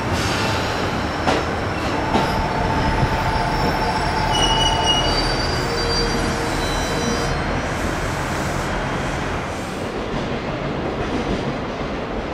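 JR 211 series electric commuter train rolling slowly into a platform under braking, with a couple of sharp clicks early and several high-pitched wheel and brake squeals for a few seconds in the middle. The noise eases in the second half as the train slows.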